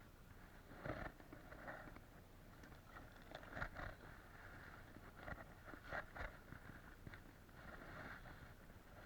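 Faint, irregular taps and scraping of turkeys pecking at scattered feed, with soft rustling between the taps.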